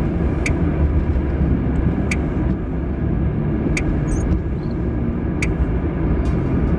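A car driving, heard from inside the cabin: a steady road and engine rumble with four sharp clicks evenly spaced about a second and a half apart.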